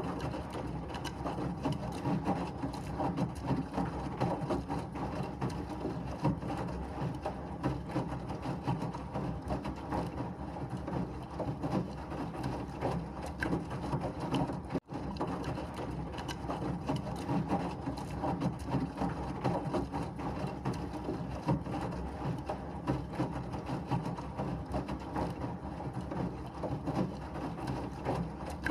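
Washing machine running with a steady churning rumble and a fine rattle, cut by a split-second dropout about halfway through where the recording loops.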